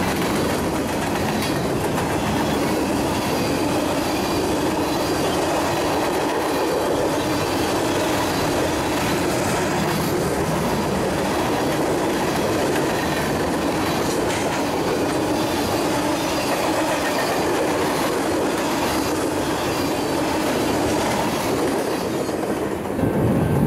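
Freight train's cars rolling past: a steady rumble and rattle of steel wheels on the rails, with a few faint clicks.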